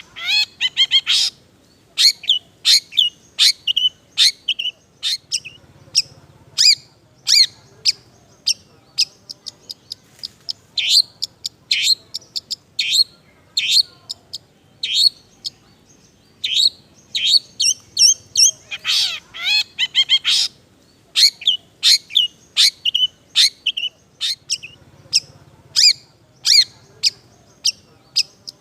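Long-tailed shrike singing: a quick, chattering run of short, sharp high chirps in phrases with brief gaps, mixing in mimicked song, with a longer, harsher burst about nineteen seconds in.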